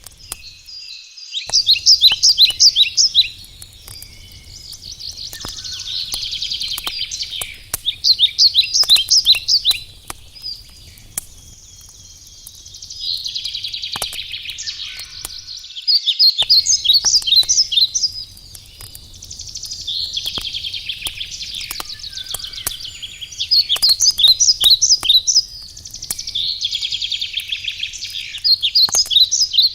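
A songbird singing loud, rapid trilled phrases, repeated every few seconds and alternating with buzzier passages, over a crackling campfire with scattered sharp pops.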